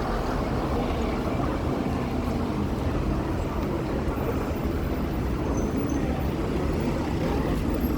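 Steady city street noise of passing traffic, a continuous low rumble with faint voices in the background.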